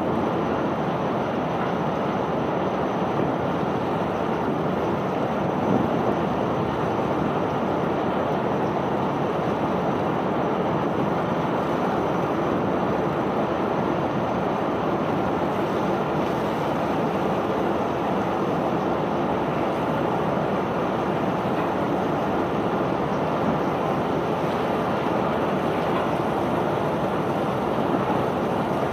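Self-unloading barge discharging bulk cargo: a steady, dense rushing rumble of unloading machinery running with material pouring off.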